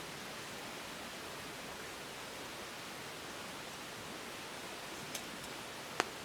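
Steady, even hiss of rain falling. A faint click about five seconds in and a sharp click at the very end.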